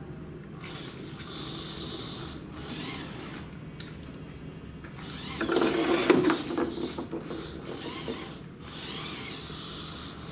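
Small geared electric motors of a hobby robot whirring and rattling as it drives, with a louder burst of rattling about six seconds in.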